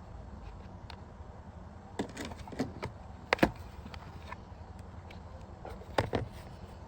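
A few sharp clicks and knocks, the loudest about three and a half seconds in and again at six seconds, over a steady low hum.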